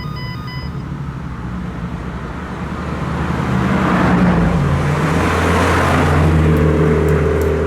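A modified car with a loud exhaust driving past, its low engine rumble and road noise building from about three seconds in and staying loud. Background music fades out in the first second.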